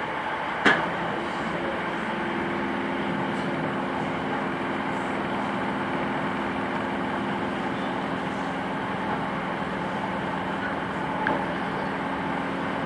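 Electric commuter train running along the track, heard from inside the carriage as a steady rumble and hiss. There is a sharp knock about a second in, and a low steady hum of a few tones from about two seconds in.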